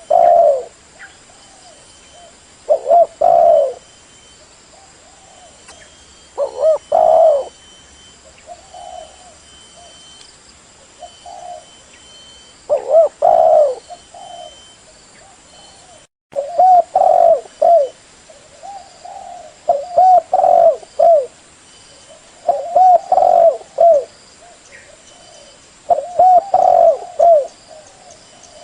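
Spotted dove (tekukur) cooing: loud phrases of several low coo notes repeated every few seconds, with fainter coos between them. The sound cuts out for an instant about halfway through.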